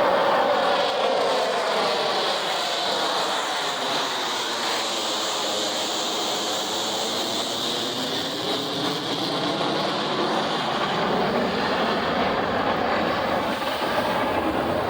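F-35 Lightning II fighter jet's single engine making a loud, continuous jet noise as the jet passes, with a swirling, phasing sweep in its tone as it goes by.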